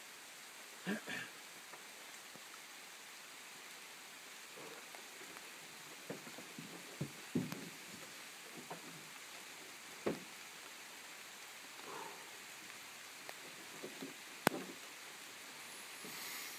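Faint steady outdoor hiss with scattered small knocks and clicks, the sharpest about fourteen and a half seconds in; no gunshot or explosion is heard.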